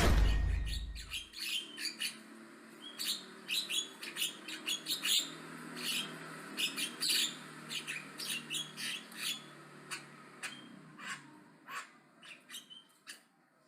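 Javan myna chattering: a fast run of short, sharp chirps, squawks and clicks that thins out toward the end. A loud low sound dies away in the first second.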